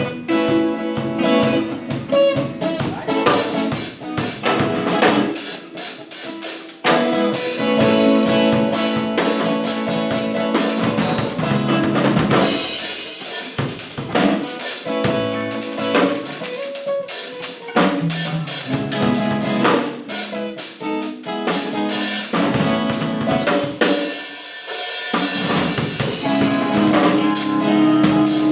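Rock music: an electric guitar played through a Boss GT-100 multi-effects processor into two amps in stereo, over a driving drum kit with kick and snare.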